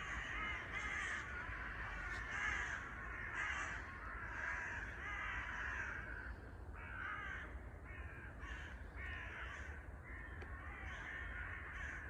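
Many crows cawing at once in a continuous, overlapping chorus of harsh alarm calls, denser in the first half and more broken up later. It is a mobbing alarm at a raptor, probably a goshawk, hidden low in the wood.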